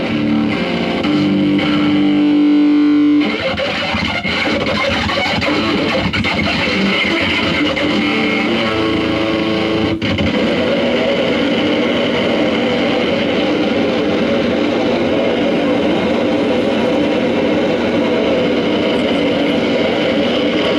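Live noise rock: distorted electric guitar through effects pedals, holding one note for about three seconds and then breaking into a dense, steady wall of distorted noise.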